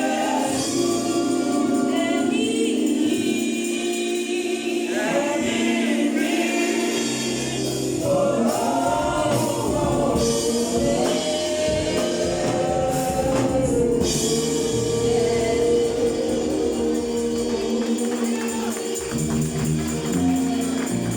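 A choir singing a gospel song, with voices holding and sliding between sustained notes.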